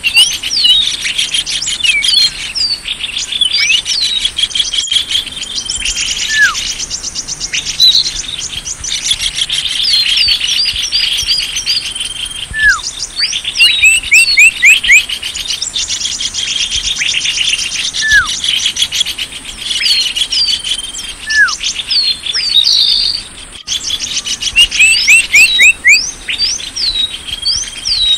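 Bird-lure recording of many small birds chirping and twittering in a dense chorus of quick, downward-sweeping high notes, over a steady high tone. A lower falling whistle recurs every few seconds.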